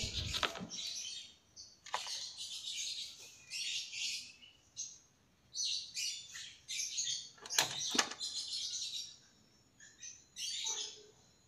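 Small birds chirping in short, repeated bursts of high twittering, with a few sharp clicks, the loudest about eight seconds in.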